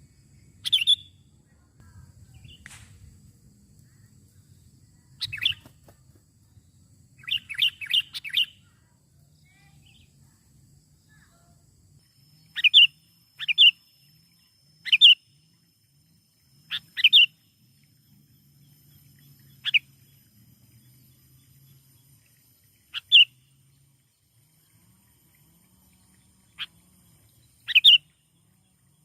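Sooty-headed bulbul (kutilang) giving short, sharp chirping calls at irregular intervals, mostly singly and once in a quick run of several.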